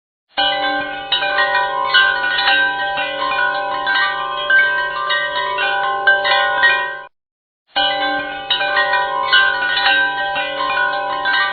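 Background track of wind chimes: many overlapping metallic tones ringing and sustaining. It cuts off about seven seconds in and starts again after half a second, as a looped track does.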